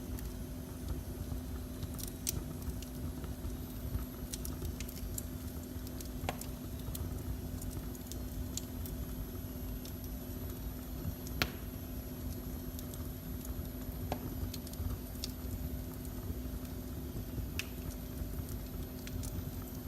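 Wood fire in a fireplace burning with a steady low rumble, a faint steady hum underneath and scattered sharp pops and crackles. The loudest pop comes a little past halfway.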